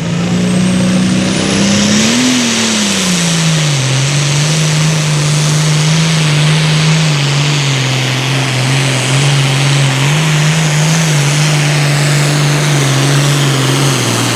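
Super Farm pulling tractor's turbocharged diesel engine running flat out under load during a pull. The engine pitch climbs for about two seconds and then drops back and holds, with a loud hiss and a faint rising whistle over the first two seconds.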